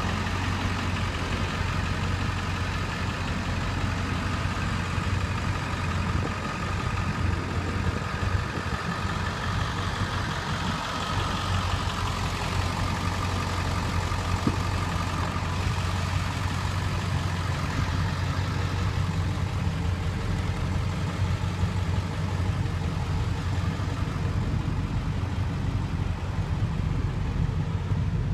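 Ford 7.3-litre Powerstroke V8 turbo diesel running steadily, with a low, even hum.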